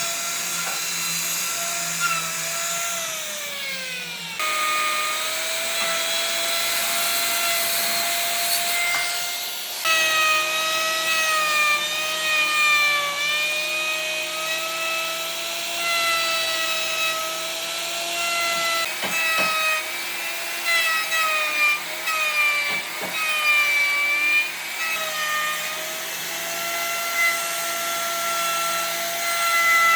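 Handheld electric power tool working wood. Its motor whine sags and recovers as it bites into the wood, with a short break about four seconds in and again near ten seconds.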